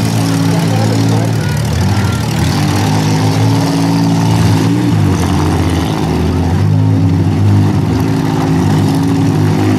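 Several six-cylinder demolition derby cars' engines revving and easing off as the cars drive and reverse around a muddy arena, the pitch rising and falling.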